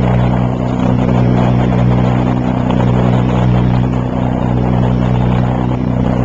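1957 James portable dishwasher running: a steady motor hum with water spraying and splashing inside the tub.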